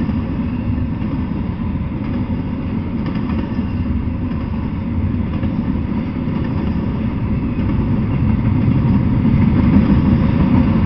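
Double-stack intermodal freight train rolling past: a steady, heavy rumble of wheels on rail that grows a little louder near the end.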